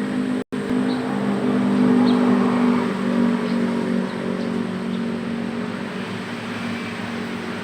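Vehicle engine idling with a steady low hum, faint high chirps from small birds above it, and a brief dropout in the sound about half a second in.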